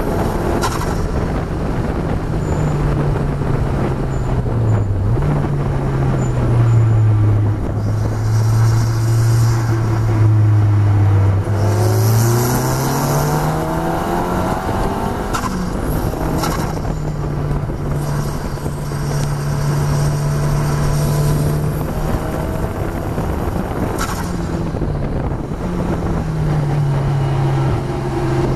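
KTM X-Bow's turbocharged Audi 2.0-litre four-cylinder engine running hard on track, recorded onboard, with wind rush over the open cockpit. The engine note holds steady, falls lower for several seconds, then climbs in a long rising pull, with a couple of short dips in pitch.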